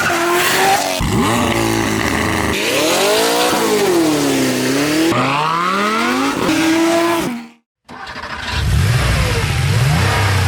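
A string of supercar engines revving and accelerating hard, clip after clip, each engine note rising and falling in pitch. There is a brief dropout to silence about three-quarters of the way through.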